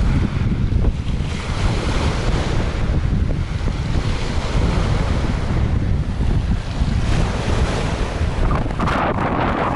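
Strong wind blowing and buffeting the microphone, a steady low rumble with rushing gusts that swell and ease.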